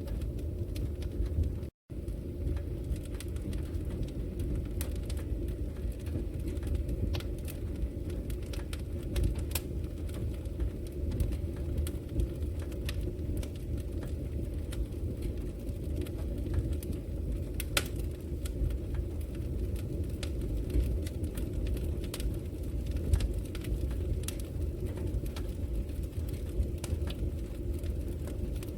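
Wood fire burning in a brick fireplace: a steady low rumble of flames with irregular sharp crackles and pops from the burning logs. The sound cuts out for an instant just under two seconds in.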